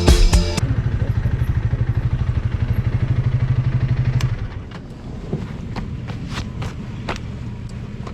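Honda Rebel 300's single-cylinder engine idling with a rapid, even putter, shut off about four seconds in. A few light clicks and knocks follow.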